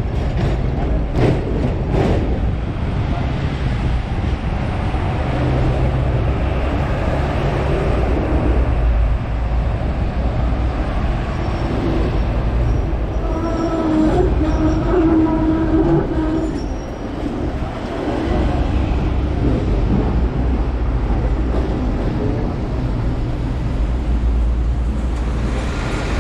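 Hong Kong double-decker electric tram running along its street track, heard from on board: a steady low rumble of wheels and motors, with a few sharp clicks near the start and a brief pitched whine about halfway through.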